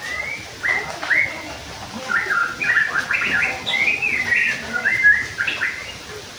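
A bird singing: a quick run of short, high chirping notes, thickest in the middle.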